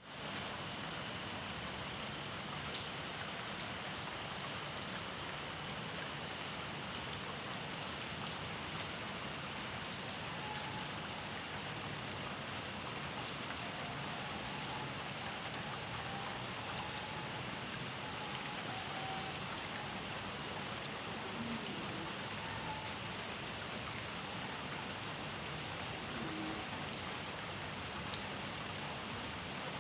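Steady rain falling on a pond, an even hiss with scattered sharper drop ticks, one louder about three seconds in.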